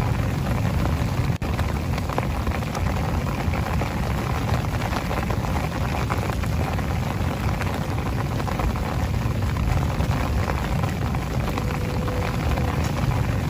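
Heavy rain falling steadily, a dense patter of drops over a deep low rumble, with a brief dropout about a second and a half in.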